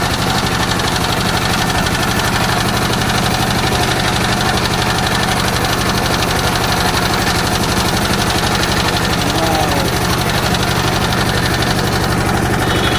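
Single-cylinder diesel engine of a Sifang power tiller running steadily after starting, with an even, rapid chugging beat.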